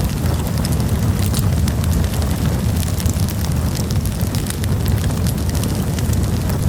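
Wood campfire burning, crackling with many small sharp pops over a steady low rumble.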